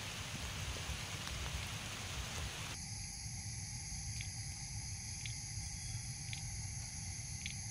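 Steady rain falling, a continuous hiss. About three seconds in the sound turns thinner, and faint clicks come about once a second.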